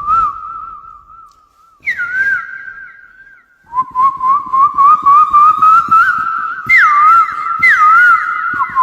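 A man mimicking birdsong by whistling: a warbling, quavering trill that breaks off about two seconds in, resumes a little higher, then from about four seconds a louder, faster trill with quick upward swoops.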